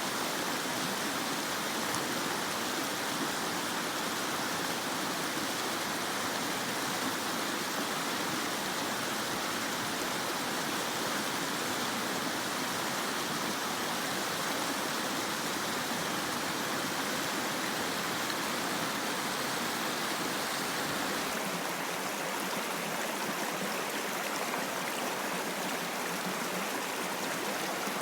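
Mountain stream rushing steadily over rocks. The rush shifts slightly in character about twenty seconds in.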